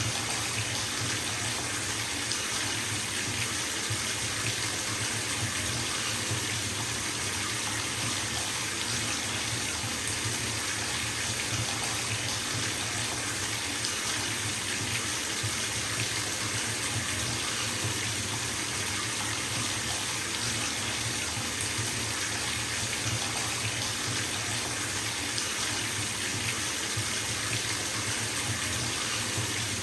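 Bathtub filling from its tap: water running steadily into the tub, an even splashing rush with a low rumble beneath.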